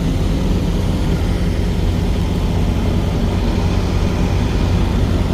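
Heavy truck's engine running at a steady speed, a constant low drone.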